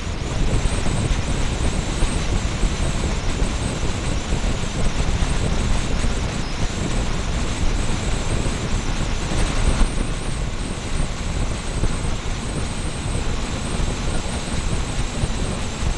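Motorcycle riding noise as heard by a small camera fixed to the bike: a steady rush of wind on the microphone, strongest at the low end, over engine and road noise. There is a short louder surge about ten seconds in.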